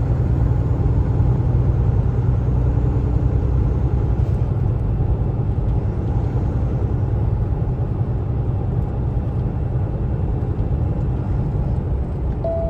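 Semi truck cruising on the highway: a steady low rumble of diesel engine and road noise that holds even throughout.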